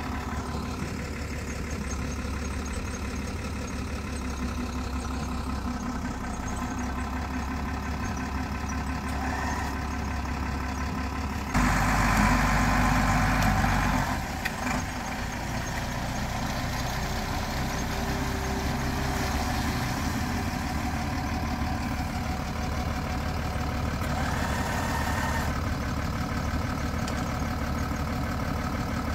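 Vehicle engine running steadily, with a louder spell of a couple of seconds about twelve seconds in.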